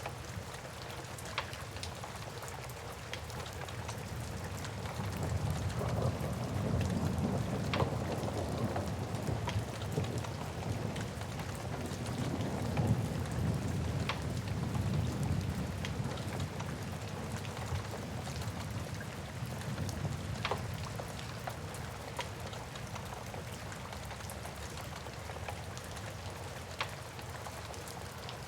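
Steady rain with a long low rumble of thunder that builds about four seconds in and fades away by about eighteen seconds. A wood fire crackles now and then with single sharp pops.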